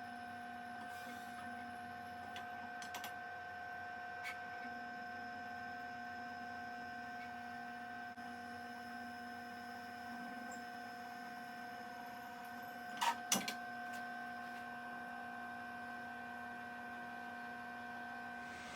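Drill press motor running with a steady, even whine, and two sharp knocks a little past halfway.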